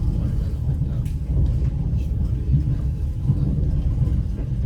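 Steady low rumble of a passenger train running on the rails, heard from inside the carriage.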